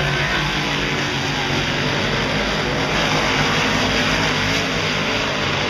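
A pack of big-block dirt modified race cars running at speed, several V8 engines heard at once, their pitches rising and falling as they go around the track.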